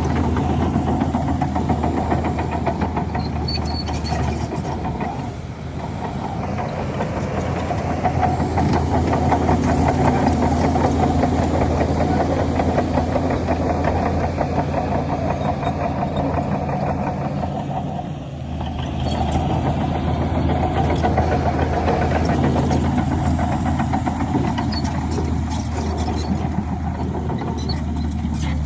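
Heavy diesel earthmoving machinery running steadily, its engine pulsing low, with a continuous rattle over it; the level dips briefly about five seconds in and again about eighteen seconds in.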